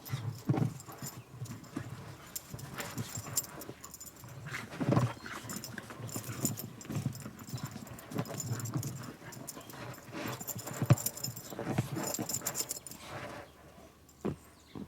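Dogs romping in deep snow: irregular thuds and scuffling of paws.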